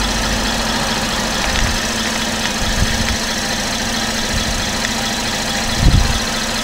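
Holden VE Commodore's engine idling steadily, heard from beneath the car, left running so the 6L50 automatic transmission's fluid level can be set at the fill plug. A brief thump near the end.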